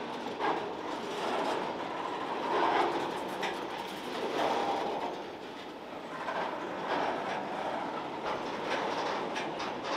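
Covered hopper cars of a long freight train rolling past, their wheels clacking over the rail joints, with the track creaking under the weight.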